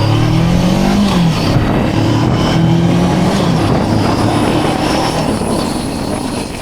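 Motorcycle engine running under way, its pitch rising and then dropping back about a second in before holding steady, with wind and road noise over it.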